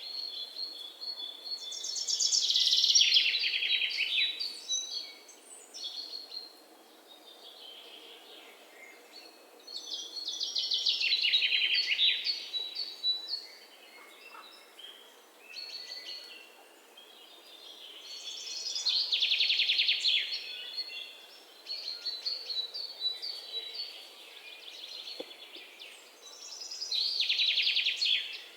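A songbird singing: a loud, rapid trilled phrase of about two seconds, repeated four times at roughly eight-second intervals, with softer high chirps in between.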